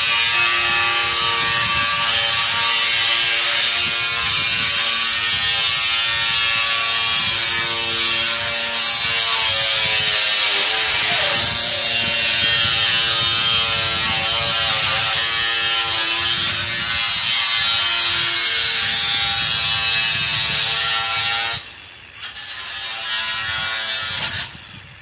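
An electric power tool on a roofing job runs steadily for about twenty seconds, its motor pitch shifting up and down as the load changes, then stops.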